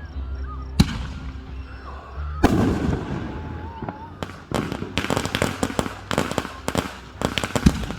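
Fireworks going off: a sharp bang about a second in and a bigger boom about two and a half seconds in, then from about four seconds a rapid string of bangs and crackles.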